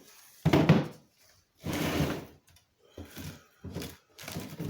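Knocks and rustling as boxed parts and their packaging are handled: a sharp knock about half a second in, a longer rustle near two seconds, then a few lighter knocks.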